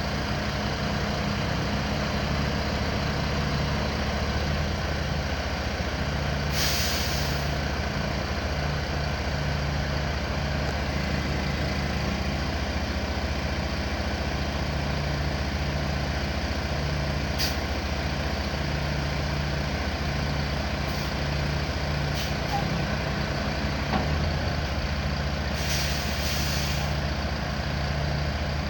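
An engine running steadily with a pulsing low hum, and two short bursts of hissing air, about a quarter of the way in and again near the end.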